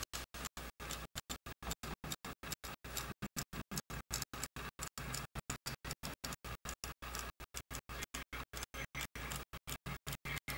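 Linear camera dolly rolling along its rail, picked up by the camera's built-in microphone: a rough rolling scrape with ticks, broken by many brief gaps, several a second.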